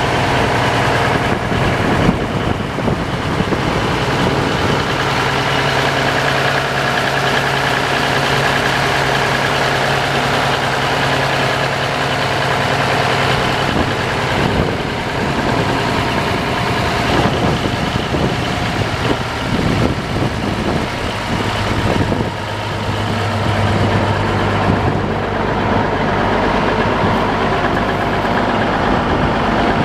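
1984 Versatile 895 4WD tractor's Cummins 855 six-cylinder diesel engine running steadily at idle. Its note drops slightly about two-thirds of the way through.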